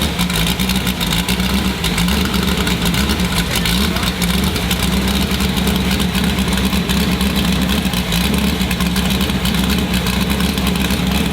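LS V8 engine in the Oilstainlab Half 11 idling steadily at a constant pitch, without revving.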